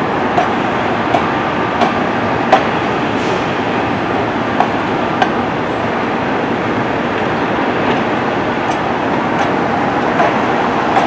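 Disneyland Railroad train rolling along the track: a steady rumble and clatter of wheels, with scattered sharp clicks and knocks.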